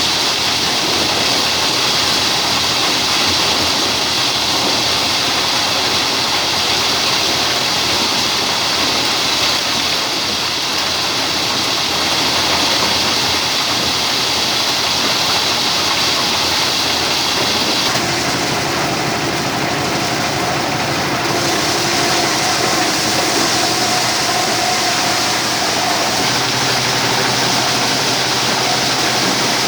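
Stationary diesel engine running a corn sheller machine, a loud steady mechanical din with rushing noise; the tone shifts about eighteen seconds in and again near the end.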